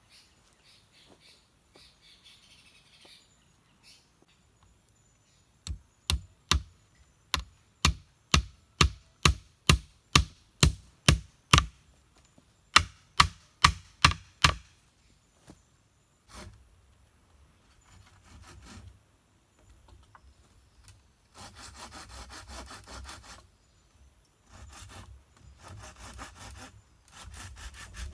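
Wood being chopped: a run of about twenty sharp strikes, two or three a second, stopping briefly partway. After a pause, spells of rapid rasping strokes of wood being sawn or shaved.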